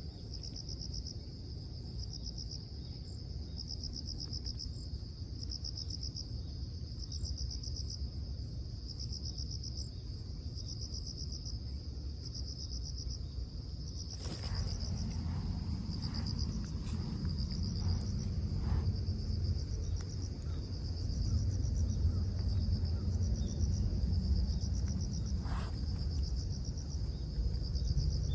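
Insects chirping outdoors in repeated high-pitched pulsed trains, each about a second long with short gaps between. A low rumble underneath grows louder about halfway through, with a few clicks.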